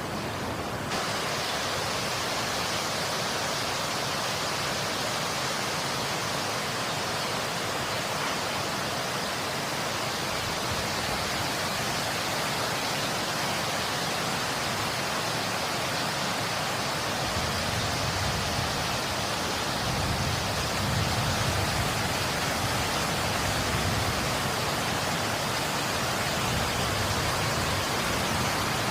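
Steady rain: an even, unbroken hiss of falling water, with a deeper rumble swelling slightly about twenty seconds in.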